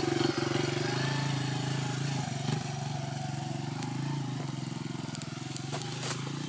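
Honda CRF80F dirt bike's small four-stroke single-cylinder engine running steadily, gradually getting quieter.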